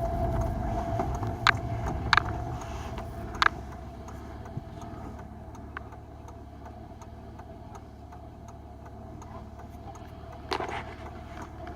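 Car heard from inside the cabin: a low engine and road rumble that dies down after about three seconds, with a faint steady hum and a few sharp clicks early on.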